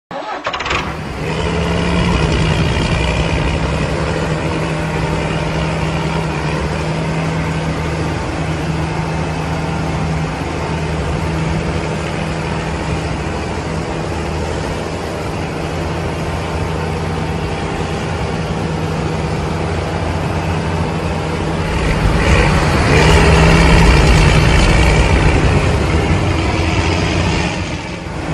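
Engine-like running sound of a toy remote-control tractor pulling a disc harrow through sand: a steady hum with a constant low tone, swelling louder for a few seconds near the end.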